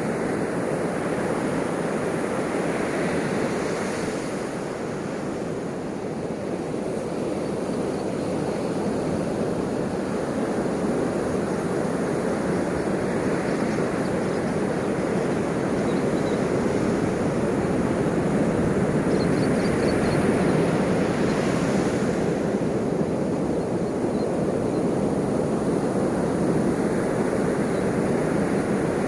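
Ocean waves breaking and washing in a steady rush, swelling and easing slowly over many seconds.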